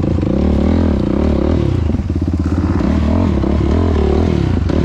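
Yamaha YFZ450R's single-cylinder four-stroke engine running through a Rossier R5 aftermarket exhaust, revving up and down again and again as the throttle is worked, with a brief dip in the revs about two seconds in.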